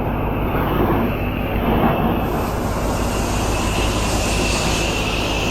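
Gas pressure washer running steadily under load, its engine drone mixed with the hiss of the spraying water.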